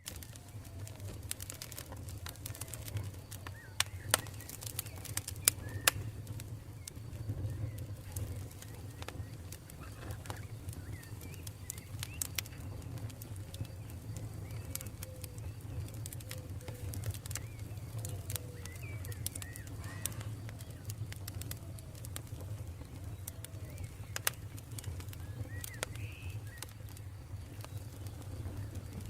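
Campfire crackling, with irregular sharp pops and snaps (a few loud ones) over a low steady rumble of burning. Faint bird calls sound now and then in the background.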